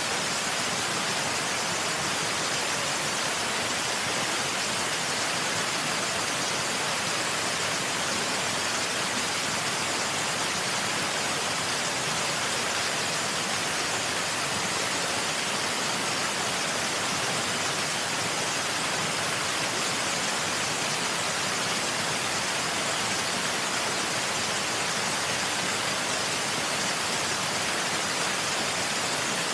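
Waterfall: a steady, unbroken rush of falling water, hissy rather than deep.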